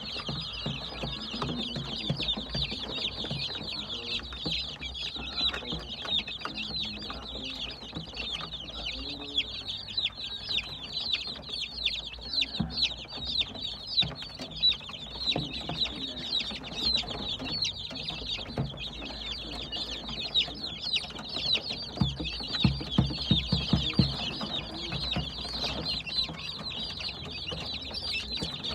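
A brood of baby chicks peeping nonstop, many short high chirps overlapping. A run of low knocks breaks in for a couple of seconds near the end.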